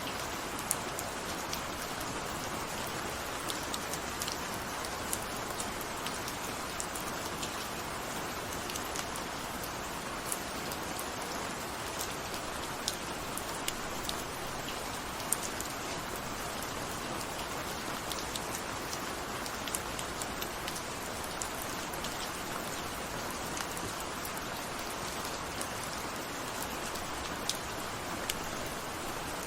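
Steady rainfall, an even hiss of rain with many separate drops ticking sharply on a hard surface.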